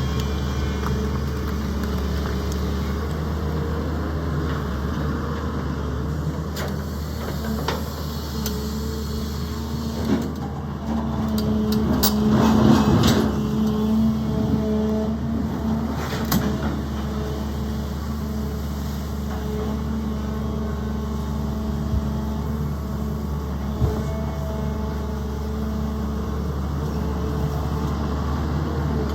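Sany excavator's diesel engine running steadily, growing louder for a few seconds around the middle as it works, with a few sharp knocks.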